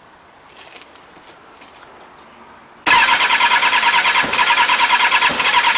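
Kawasaki ZX-6R's electric starter cranking the 600cc inline-four with a fast, even pulsing whirr, cutting in suddenly about three seconds in. The engine turns over but never fires: a no-start with the choke partly on and no throttle.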